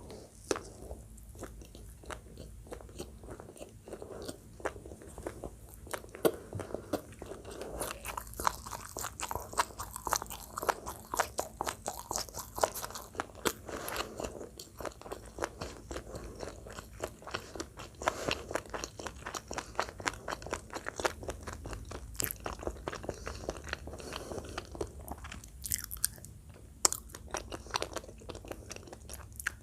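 A person chewing and crunching food close to the microphone: a dense, steady stream of wet clicks and crunches, thinning out for a moment near the end.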